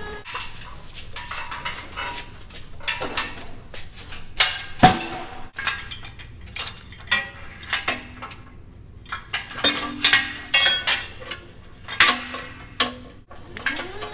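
Irregular metallic clanks, knocks and rattles of metal objects being shifted and handled. Near the end a motor's whine rises in pitch and then holds steady.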